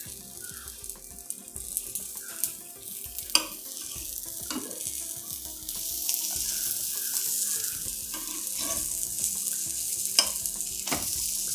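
Buttered burger buns sizzling on a flat tawa griddle, the sizzle growing louder from about six seconds in as the buns are turned over, with a few sharp taps of a spatula against the pan.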